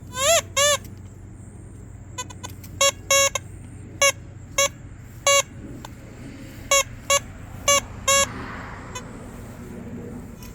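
Metal detector giving target tones: about a dozen short pitched beeps, the first two rising chirps and the rest steady, signalling buried metal targets under the search coil.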